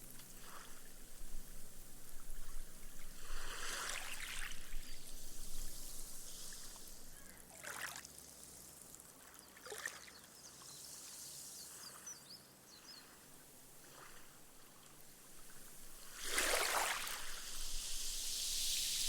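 Small, gentle waves lapping on a sandy beach: several soft washes, the loudest near the end. Each one is followed by a fizzing hiss as the foam bubbles away and the water soaks into the sand.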